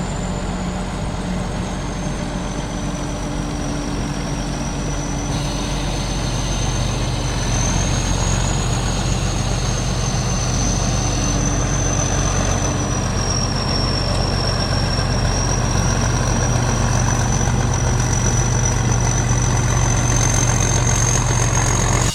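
Rice combine harvester running steadily: a deep engine drone with a high whine over it that wavers slightly in pitch, getting a little louder about seven seconds in.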